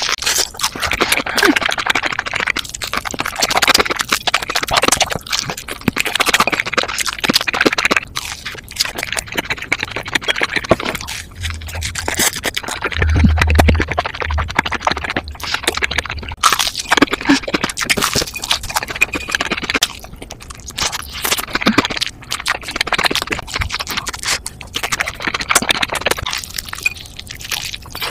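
Close-miked biting and chewing of crunchy cheese-seasoned Korean fried chicken, the crust crackling in long stretches broken by short pauses, with a low bump about halfway through.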